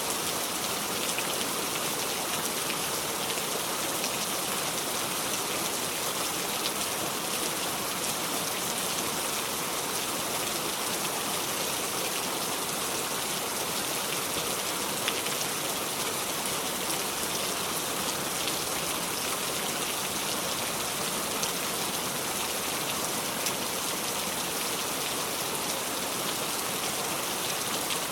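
Steady heavy rain with no thunder, an even hiss of rain with a few louder single drops ticking now and then.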